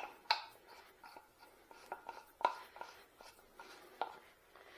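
Irregular clicks, clinks and knocks of lathe fittings and tools being handled and set in place by hand, with the lathe stopped. A few sharper knocks stand out, about a third of a second in, halfway through and near the end.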